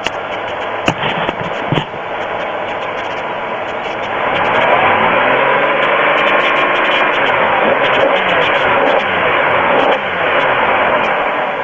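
A 2002 Pontiac Grand Am's 3.4L V6 engine running. Two sharp clicks come about a second apart near the start, then the engine is revved up and back down over about six seconds before it settles.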